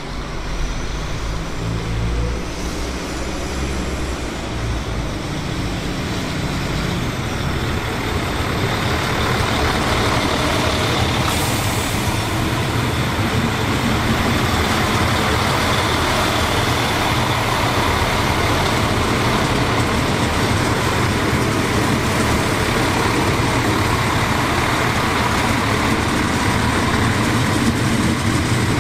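A train running past. A low drone at first, then the steady rush and rumble of the train's running grows from about eight seconds in and holds.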